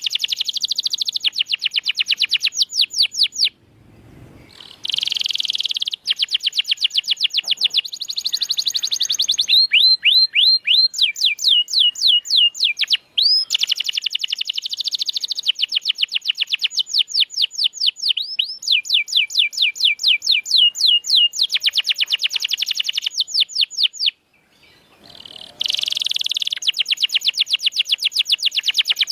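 Domestic canary singing long rolling trills of fast, evenly repeated high notes, some phrases sweeping in pitch, with two brief pauses between phrases.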